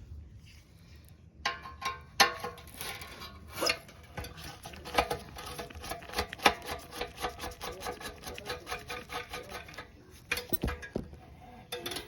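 Hand tools and metal parts being worked on a gas water heater's pilot assembly: a dense run of quick clicks and scrapes that starts about a second and a half in and stops near the end.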